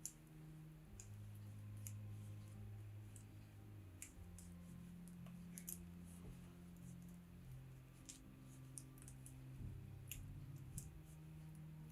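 ChiaoGoo Red Lace stainless steel circular knitting needles clicking lightly and irregularly as stitches are worked, about one or two small clicks a second. Soft, low held music notes sound underneath.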